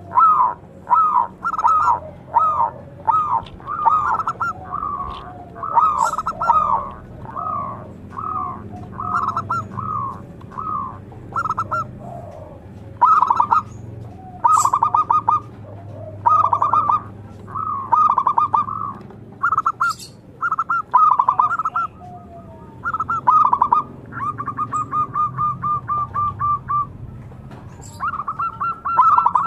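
Zebra dove (perkutut) cooing: a long run of short, rapid cooing phrases, some broken into fast rolling trills, repeated without pause.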